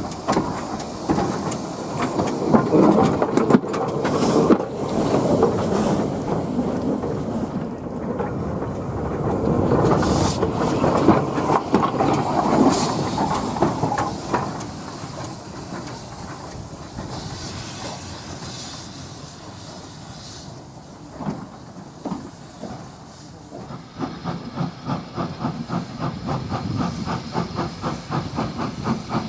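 A heritage railway train running, with a rumbling, clattering first half. A high hiss, typical of escaping steam, comes about two-thirds of the way through, and a quick regular beat of about three a second begins near the end.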